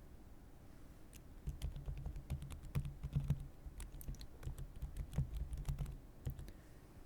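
Typing on a thin computer keyboard: a run of quick, irregular key clicks with soft low thuds, starting a little over a second in and stopping near the end.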